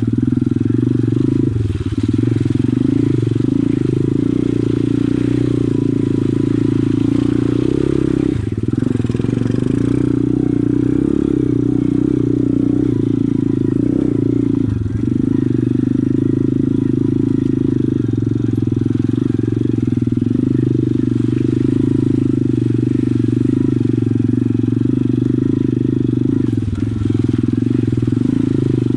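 Pit bike engine running steadily under way. Its note briefly dips four times, about a second and a half in, at eight seconds, near fifteen seconds and near the end.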